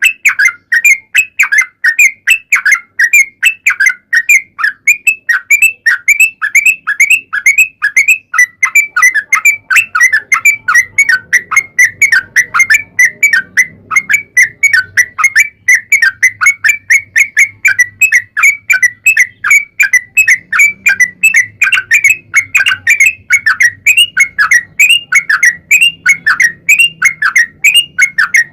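Yellow-vented bulbul (trucuk) singing a long unbroken run of quick notes, about four a second, each dropping in pitch.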